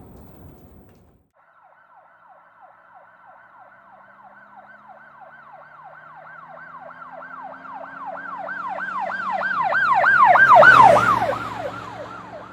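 Emergency vehicle siren on a rapid yelp, wailing up and down a few times a second over a low engine rumble. It grows steadily louder to a peak near the end, then fades, as if the vehicle passes by.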